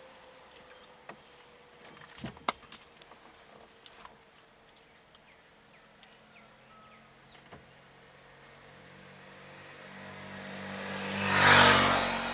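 Faint road background with a few sharp clicks. Near the end a motor vehicle approaches and passes close by, its engine and tyre noise swelling to a loud peak and then starting to fade.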